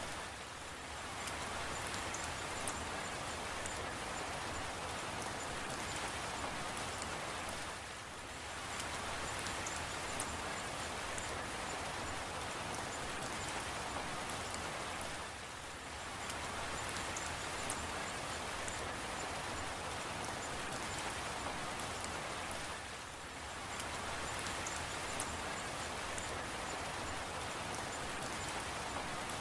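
Steady rain falling, with faint drips, that briefly softens about every seven to eight seconds.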